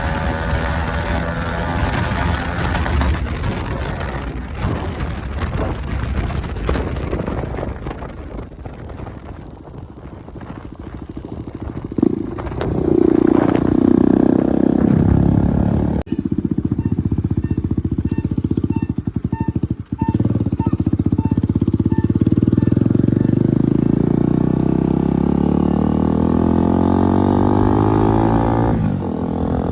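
Bajaj Dominar 250's single-cylinder engine running loud through an exhaust with its baffle net removed, on a moving bike. Mostly wind noise at first; about twelve seconds in the engine revs up with a rising note, then holds a steady note that rises and falls, with a brief break near twenty seconds.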